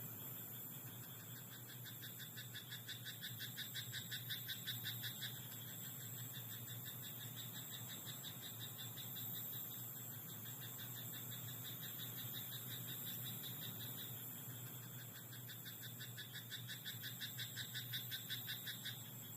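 Frog croaking in two bouts of rapid, evenly pulsed calls, one starting about a second and a half in and one near the end, each growing louder as it goes, over a steady background hiss and low hum.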